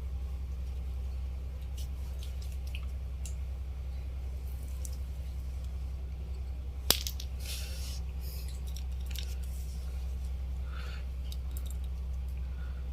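Small clicks and ticks of hands working with wires and parts on a bench, with one sharp click about seven seconds in, over a steady low hum.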